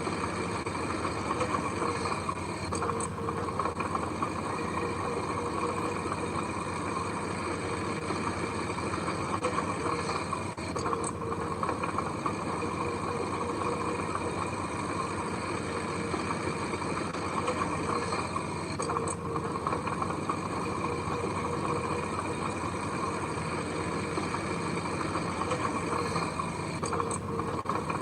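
Heavy machinery engine running steadily at an even pitch.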